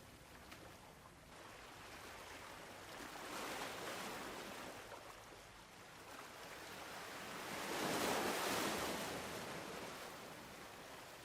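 Ocean surf: two waves swell and wash in, a smaller one about three seconds in and a louder one about eight seconds in, each fading back out.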